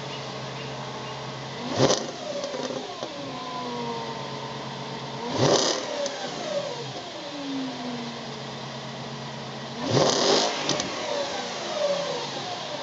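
2004 Audi S4's 4.2-litre V8 through a custom 2.5-inch stainless catback exhaust with X-pipe and Jones mufflers, idling and blipped three times: each rev rises sharply and falls back to idle over a second or two.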